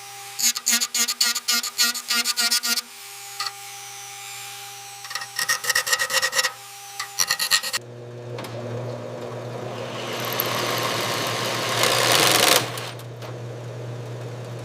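Rapid rasping strokes in short runs, about eight a second, over a steady low hum. About eight seconds in a hiss swells over the hum and then drops away near the end.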